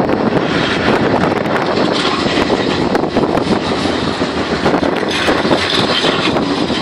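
Bombardier Flexity 2 tram running on its rails: a steady, loud rumbling noise.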